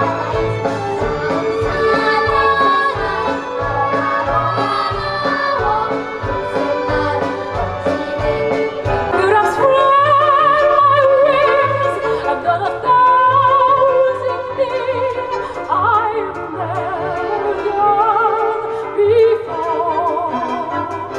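Music with a steady low beat, joined about nine seconds in by a singer in operatic style with strong vibrato.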